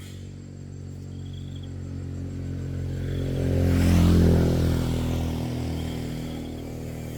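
A motor vehicle passing on a road: a steady engine hum that swells to its loudest about four seconds in, then fades away.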